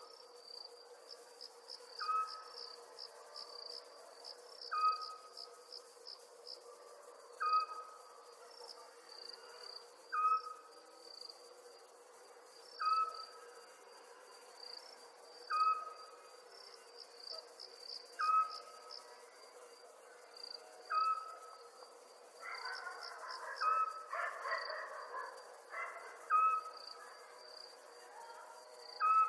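Crickets chirping steadily, with a short call repeating about every two to three seconds over them and a steady low hum. A rougher, noisier call joins for a few seconds near the end.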